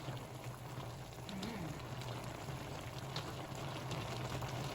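Chicken tinola soup simmering in a covered pot on the stove: steady bubbling with scattered faint ticks, over a steady low hum.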